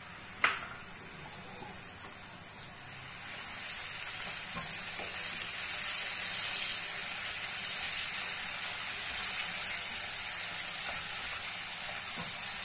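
Sliced onions sizzling in hot oil as turmeric mixed in water cooks in with them, stirred with a spatula. A single sharp clink comes about half a second in, and the sizzle grows louder about three seconds in, then holds steady.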